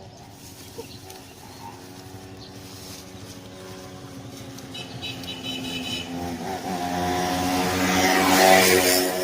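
A motorcycle engine approaching, growing steadily louder, passing close about eight and a half seconds in, then starting to fade.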